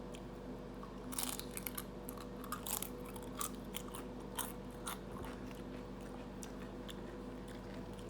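A person biting and chewing crunchy food, with irregular crisp crunches that are thickest in the first half. A steady low hum runs underneath.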